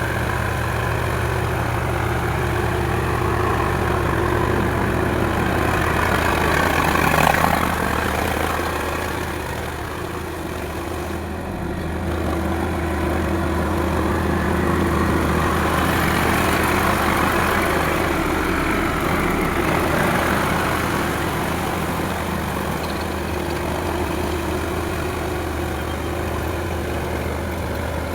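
Diesel tractor engine running steadily, growing louder about seven seconds in, easing off, then building again.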